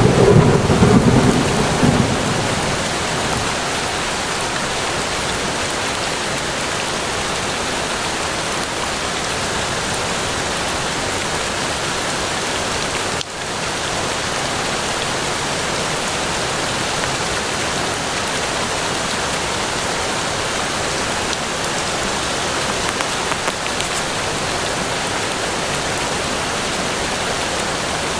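Steady heavy rain falling in a forest, with a low rumble of thunder in the first two or three seconds that fades away.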